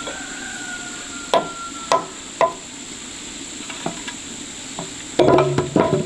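Three sharp knocks spaced about half a second apart, then a quick cluster of knocks and clatter near the end, over a steady hiss and a thin high whine.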